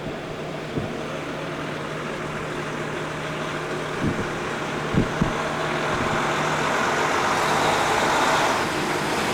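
Road traffic: a motor vehicle's engine and tyre noise, with a steady low hum, growing louder toward the end as it passes. A few dull thumps are heard near the middle.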